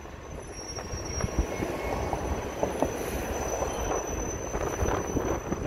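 Passenger train coaches rolling across the station tracks: a steady rumble of wheels with scattered clicks over the rail joints and points, and a steady high-pitched wheel squeal.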